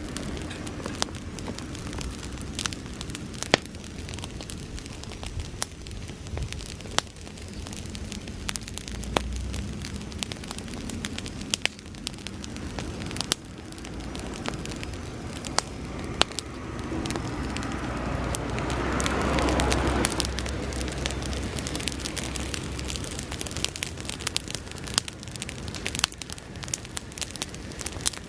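Bonfire of dry grass burning, crackling with many sharp snaps and pops over a low rumble. About two-thirds of the way through, a rushing sound builds, then falls away.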